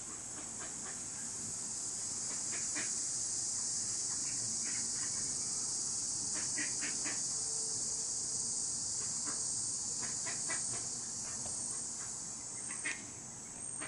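A steady, high-pitched chorus of insects such as crickets or cicadas, a little louder through the middle and easing off near the end. Short, high chips sound here and there over it.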